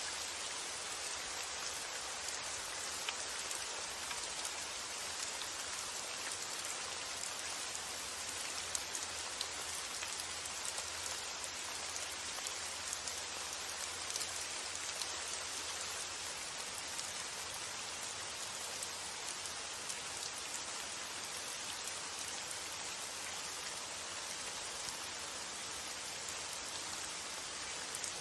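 Steady rain falling, a dense even patter with scattered sharper drop ticks.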